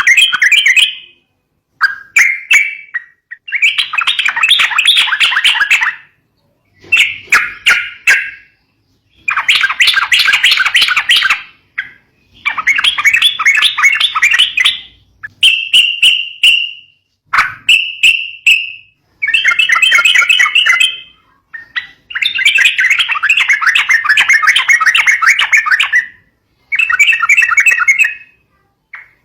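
Yellow-vented bulbul (trucuk) calls: bursts of fast, bubbly chattering, each one to four seconds long, repeated about eleven times with short gaps. The calls are the chattering fighting calls that bird keepers play as a lure.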